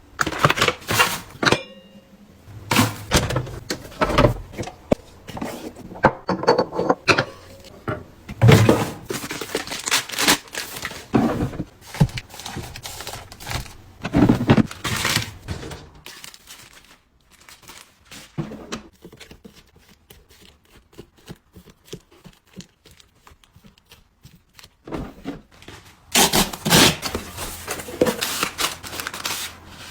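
Packaging being handled and opened: irregular crinkling, tearing and light thunks. It grows sparser and quieter for a while in the second half, then busier again near the end.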